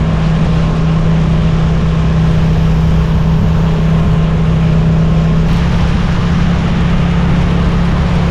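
Suzuki GSX-8S's 776 cc parallel-twin engine running at a steady cruise under riding wind and road noise, its note stepping slightly higher about five and a half seconds in.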